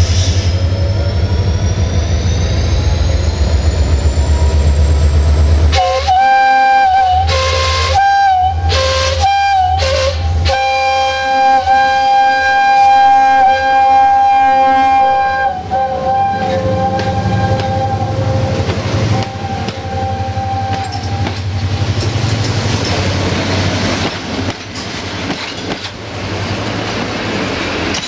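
CFR class 65 'GM' diesel-electric locomotive approaching with its engine running, then sounding its multi-tone horn. It gives a few short blasts about six seconds in, then long blasts. Its passenger coaches then roll past with wheels clattering and rumbling on the rails.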